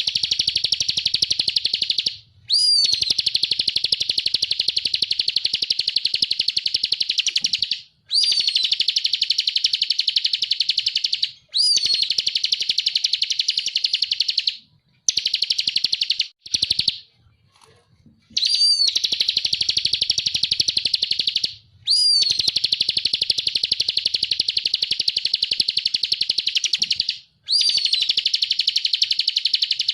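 Ciblek (prinia) singing its fast buzzing 'ngebren' trill. Each phrase opens with a short downward-slurred note, runs on for three to five seconds, and breaks off briefly before the next; there are about seven phrases.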